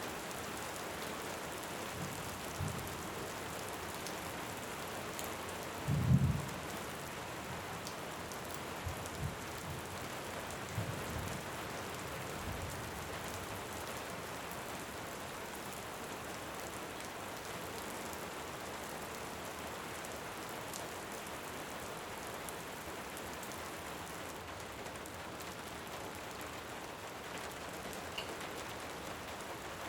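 Steady heavy rain with distant thunder: a strong low rumble about six seconds in, the loudest moment, then several weaker rumbles over the next few seconds. Faint crackles of a wood fire tick through the rain.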